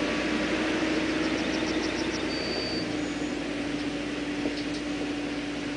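Caterpillar 432E backhoe loader's diesel engine running steadily, with one steady tone and the level easing slowly.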